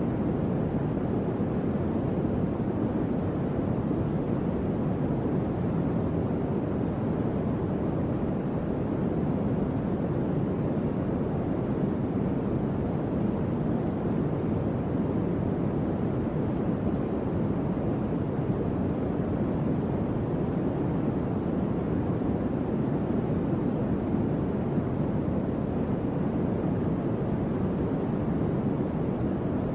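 Electric fan running steadily: an even, low whooshing hum of moving air with no changes.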